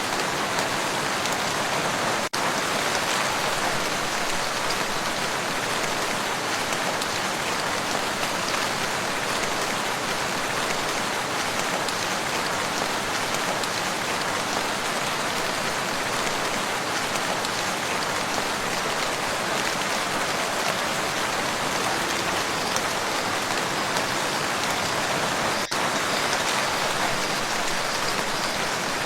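Steady rain falling on a lake, an even, dense hiss of drops on the water with two momentary dips in level.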